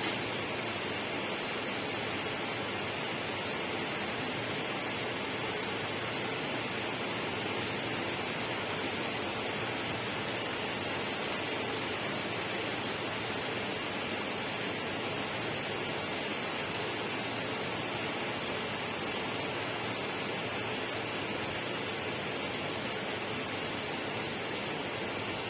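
Steady, even rushing of water that does not change.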